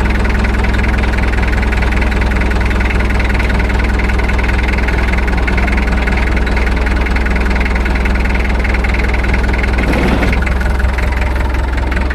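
Pickup truck engine idling steadily, with a brief faint sound about ten seconds in.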